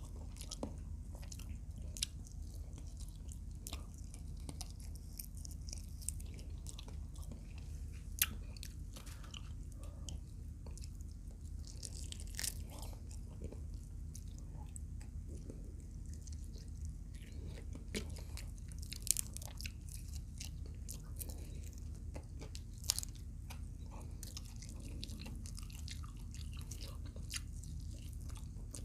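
Close-up eating sounds: mouth chewing with sharp crunches of crisp fried quail now and then, over a steady low hum.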